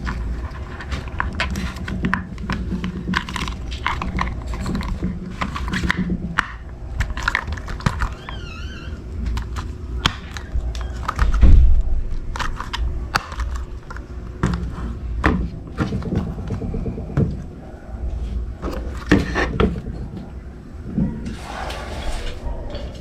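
Irregular clicks, knocks and scrapes, with one louder low thump about halfway through.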